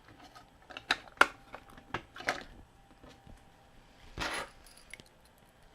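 Metal tool scraping excess solder off a battery terminal: a few sharp clicks and scrapes, then a short scrape about four seconds in.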